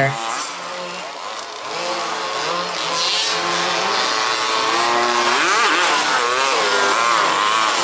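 Small two-stroke petrol engines of several 1/5th-scale RC buggies racing, their pitch rising and falling as they accelerate and slow through the track. The sound is quieter for about a second early on, then grows louder again.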